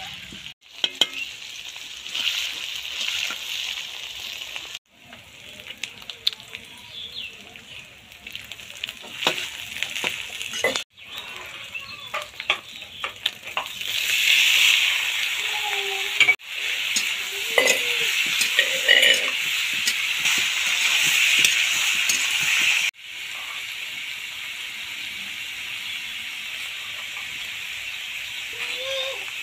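Onions sizzling in hot oil in a kadai, with a metal spatula scraping and stirring against the pan. About halfway through, small fish are tipped into the oil and the sizzle gets much louder.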